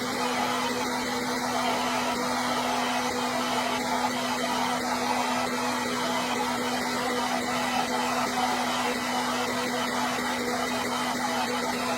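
Hair dryer running steadily: a constant rush of blown air with a steady low hum from its motor.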